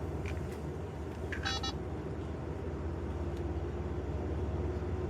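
A steady low hum, with a short high beep-like tone about a second and a half in.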